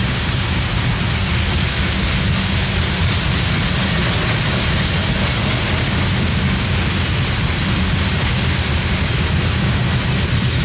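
Coal train's hopper cars rolling past on steel wheels: a steady low rumble with a rushing noise above it, unbroken throughout.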